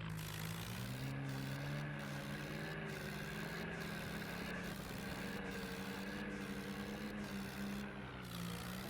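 Swaraj 855 tractor's three-cylinder diesel engine running steadily while driving. Its pitch dips briefly right at the start and again near the end, then picks back up.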